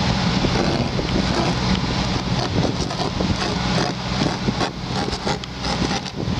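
Wind gusting and buffeting on the microphone over a car engine idling with a steady low hum, left running in sub-zero cold to defrost the iced-over car.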